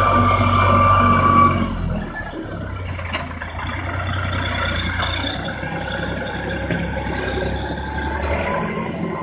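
Erkunt 70 tractor's diesel engine running steadily, with a high whine that stops about a second and a half in. The engine then drops to a quieter, lower run.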